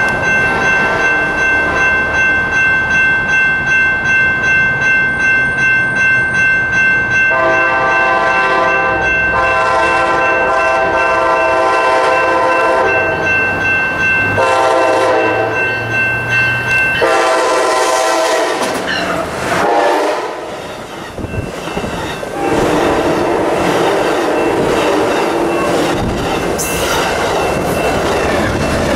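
A crossing bell rings about twice a second as an Amtrak Pacific Surfliner train approaches. About 7 seconds in, the lead locomotive's horn sounds four blasts, long, long, short, long: the grade-crossing signal. Near the end the train passes close by, wheels clicking over the rail joints.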